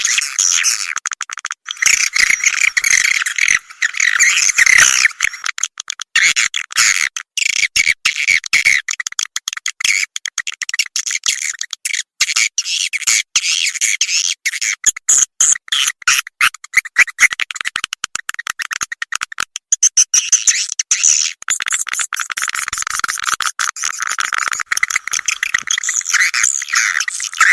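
Swiftlet call recording: a dense, unbroken twittering of many overlapping swiftlet chirps and clicks, thin with no low end. It is the kind of lure call played to draw swiftlets into a nesting house.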